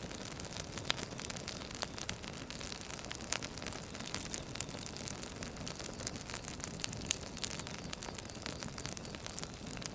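Firewood burning: a steady low rush with frequent irregular pops and crackles, one louder pop about seven seconds in.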